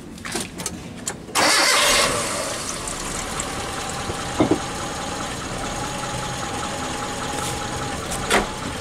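Mitsubishi Kuda's 1600 cc petrol engine, fitted with a Toyota Kijang 7K carburettor, starting. A few clicks come first, then the engine catches about a second and a half in with a brief loud burst. It settles into a steady idle, with a couple of short knocks.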